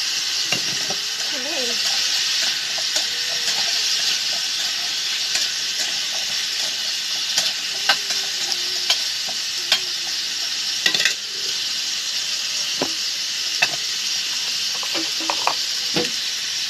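Chunks of squash and papaya frying in hot oil in a stainless steel wok, a steady sizzle. A utensil clinks and scrapes against the pan now and then as the vegetables are stirred, more often around the middle and near the end.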